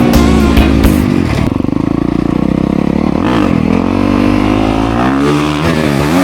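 Dirt bike engine being ridden hard, its pitch climbing and dropping repeatedly with the throttle; from about a second and a half in, the note holds steady for a while before rising again.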